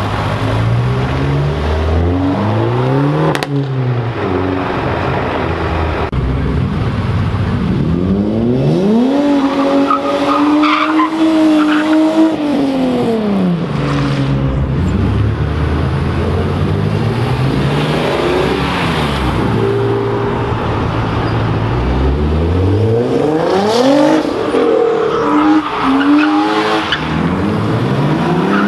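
Several modified cars' engines revving hard one after another as they pull away and pass, the pitch climbing and dropping repeatedly. The longest high rev comes about a third of the way in, and another near the end.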